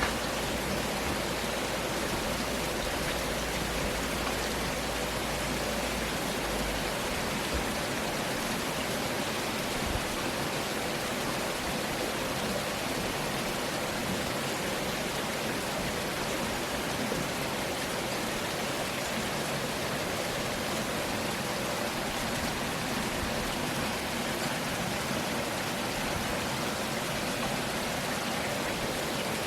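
Steady rain falling, an even hiss of drops with no break. A low rumble underneath stops about six seconds in.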